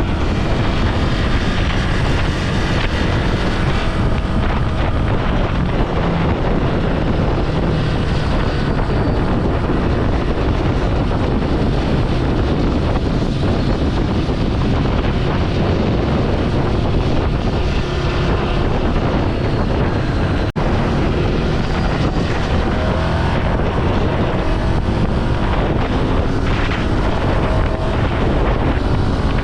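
Ducati Scrambler Sixty2's air-cooled 399 cc L-twin engine running on the road, under heavy wind noise on the microphone. The engine pitch rises and falls in places as speed changes.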